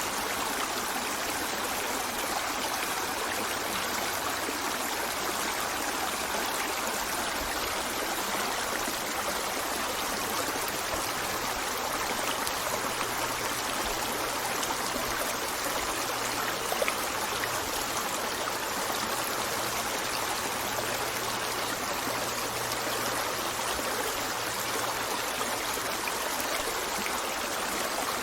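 River water flowing and babbling over stones in a steady rush, with a brief splash about two-thirds of the way through.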